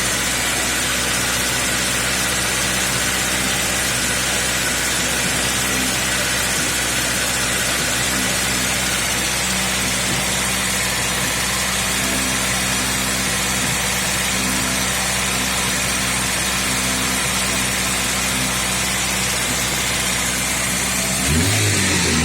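Opel Ascona engine, a 1.8-litre block and pistons in a car that came with a 1.6, idling steadily with a knock at idle. Near the end the revs rise briefly.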